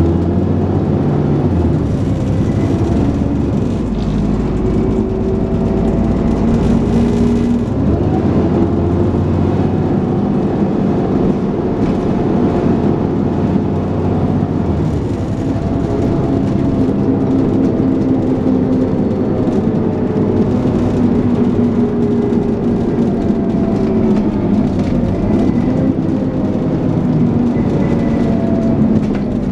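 Dennis Trident 2 double-decker bus engine working hard with heavy engine thrash and a whine of the kind enthusiasts call a "hoover". Its note climbs and drops several times as it accelerates and changes gear.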